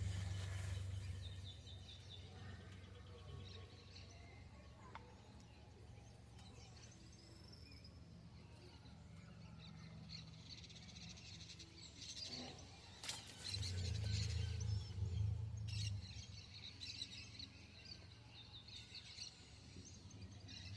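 Birds chirping, with a low rumble that swells for a couple of seconds about 13 seconds in, just after a sharp knock.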